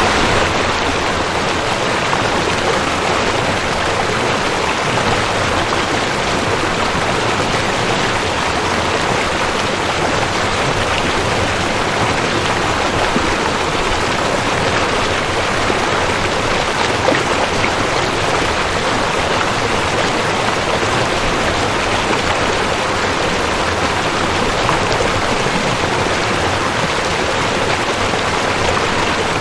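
Rushing creek: fast water running over rocks in a steady, even rush with no change.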